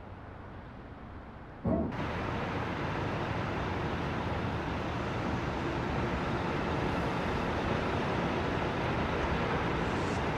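Steady running and road noise of a moving Scania K420 double-decker coach, with a low drone. It steps up abruptly and becomes louder a little under two seconds in, then holds steady.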